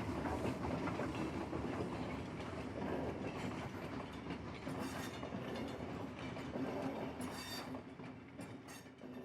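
Model railroad freight train rolling along the track, its wheels clicking over the rail joints, with a few brief high squeals from about halfway through. The sound slowly fades toward the end.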